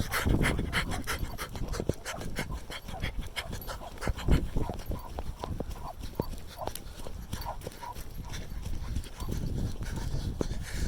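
Quick, even footfalls of a person and dog walking on a path, about five sharp ticks a second, over a low rumble.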